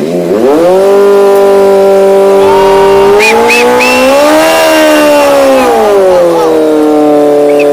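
Motorcycle engine revved up and held at high revs. The pitch climbs a little higher in the middle, eases back, then drops off at the end.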